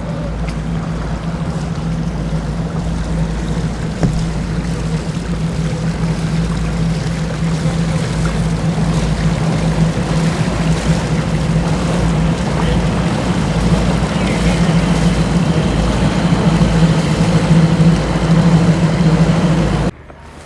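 Boat engine running steadily with water noise, gradually growing louder, then cutting off abruptly near the end.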